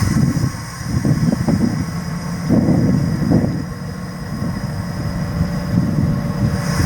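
EMD GP7 road-switcher's 16-cylinder two-stroke diesel running under load as the locomotive shoves a passenger car. It is a low rumble that swells and eases unevenly.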